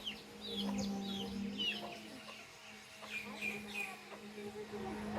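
Baby chicks peeping: many short, high chirps that slide downward in pitch, coming in clusters, over a steady low hum.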